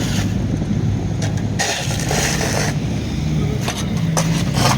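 Car engine running steadily with a low hum, with a couple of rushes of hissing noise over it.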